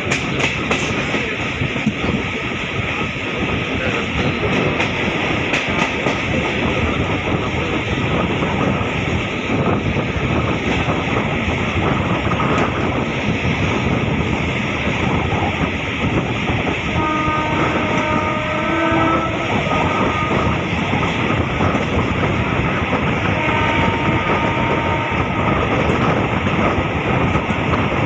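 MEMU electric passenger train running at speed, heard from an open coach doorway: a steady rumble and rattle of wheels on rails mixed with rushing air. A train horn sounds briefly about two-thirds of the way through, and again a few seconds later.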